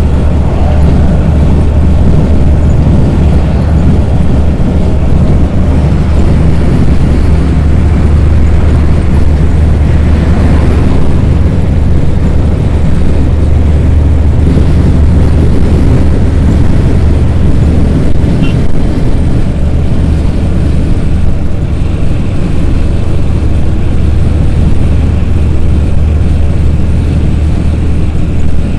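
Steady, loud low rumble of a truck running at motorway speed, engine and road noise blended without a break.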